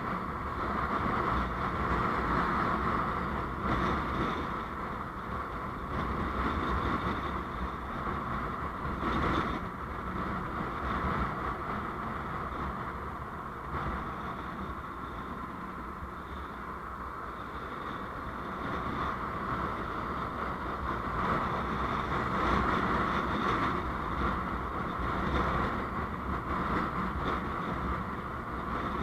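Steady road noise of a moving vehicle: a continuous rumble with a hissing band in the middle range, easing off a little midway and building again toward the end.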